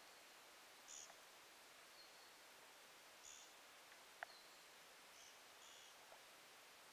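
Near silence over a faint hiss, with a bird giving brief high chirps every second or two and a single faint click a little past the middle.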